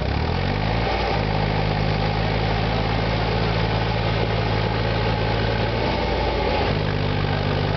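SAME Tiger 60 tractor's diesel engine running, its pitch rising over the first second and then holding steady, with a brief change in its note about six seconds in.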